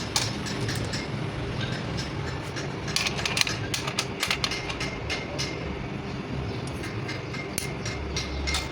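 Workshop noise: a steady low rumble with many irregular sharp clicks and light metal taps throughout.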